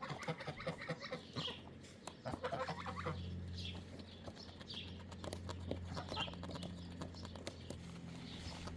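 Chickens clucking softly now and then, with a steady low hum underneath from about two and a half seconds in.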